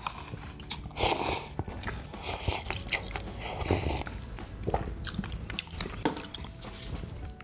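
A person eating close to the microphone: biting and chewing food, with short sharp clicks and a louder bite about a second in.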